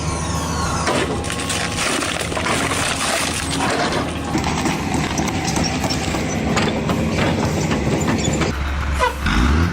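A machine engine running with a steady low hum under a dense clatter of cracking and knocking.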